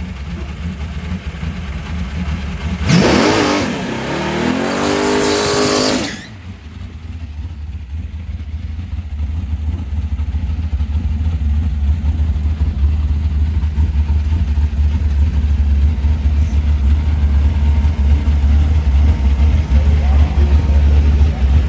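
A drag-race car's engine revving hard for about three seconds, its pitch sweeping up and down before cutting off sharply. A deep, steady rumble grows louder throughout.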